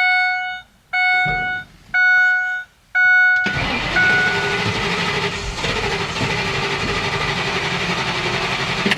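A dashboard warning chime beeps four times, about once a second. From about three and a half seconds in, the starter cranks the RV's 2004 gasoline engine steadily without it catching. This is the no-start that the owner suspects comes from a bad chassis-to-body ground.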